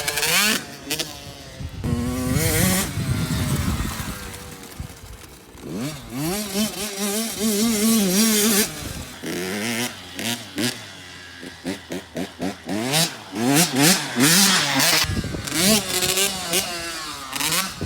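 Dirt bike engine revving, its pitch rising and falling over and over as the rider accelerates and backs off.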